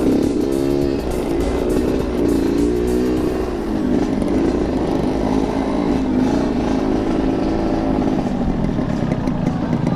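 Yamaha RX-King's 135 cc two-stroke single-cylinder engine running at low revs, its pitch rising and falling as the motorcycle rides slowly.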